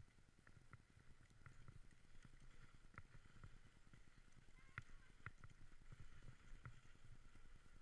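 Faint sound of a sled-dog team on the run: a rapid, quiet patter with light, irregular clicks throughout.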